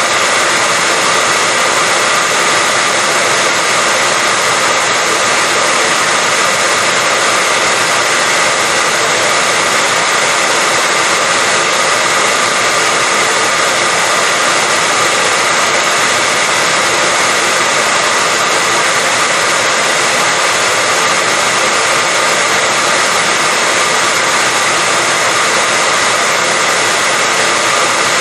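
Hair dryer running steadily: a continuous rush of blown air with a faint steady whine from its motor and fan, unchanging throughout.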